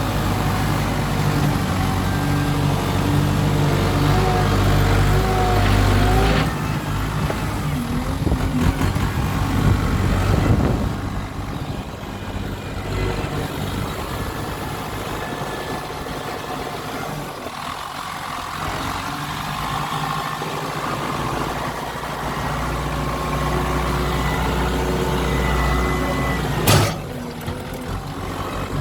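Kubota M7040 tractor's diesel engine running, steady for the first six seconds, then shifting with a rattle for a few seconds before settling again. A single sharp knock near the end.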